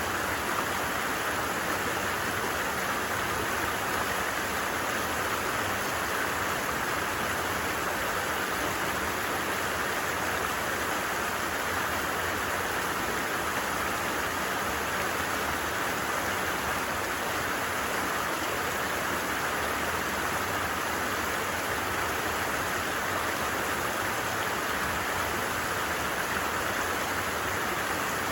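A stream running steadily, an even rush of flowing water that does not change.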